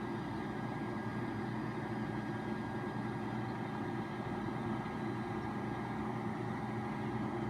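Flatbed crane truck's engine running steadily with an even low hum, a faint high steady whine sitting above it.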